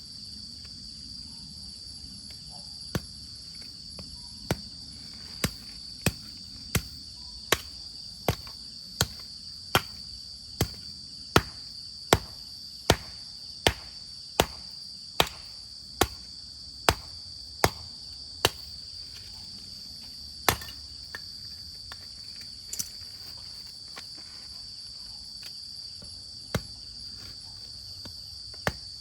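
Steady high-pitched chorus of insects, with a run of about twenty sharp knocks at an even pace of a little over one a second, such as hammering or chopping, that stops about two-thirds of the way in, followed by a few scattered knocks.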